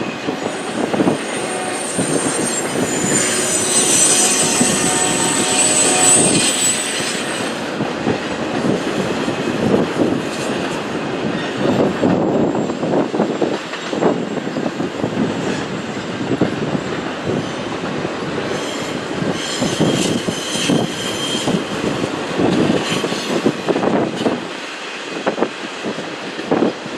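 Long intermodal freight train rolling past: a steady rumble with the clatter of wheels over the rail joints, and high steel wheel squeal through the first seven seconds or so.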